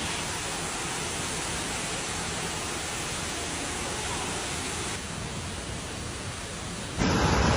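Steady rushing of storm water, an even hiss with no distinct events. About seven seconds in it cuts to a louder, deeper rush.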